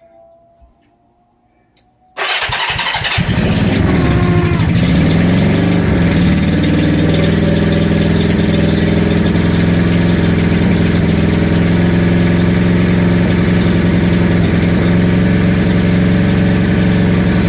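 Honda CB350 parallel-twin motorcycle engine being started: about two seconds in it cranks for about a second, catches, and its pitch wavers up and down before it settles into steady running.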